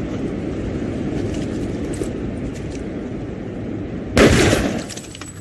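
Steady low rumble of a train car running, then about four seconds in a loud, sudden burst of gunfire.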